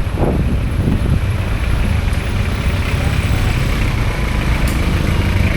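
Steady low rumble of motor vehicles, with a brief falling tone just after the start.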